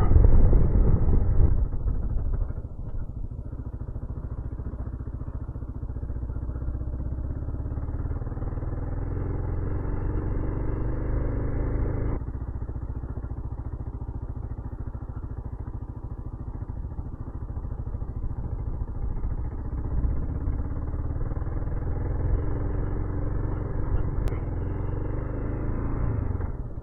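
2015 Kawasaki KLR 650's single-cylinder engine running as the motorcycle climbs a dirt road, its pitch rising in stretches under throttle, with a sudden change about twelve seconds in. Wind buffets the microphone loudly in the first two seconds.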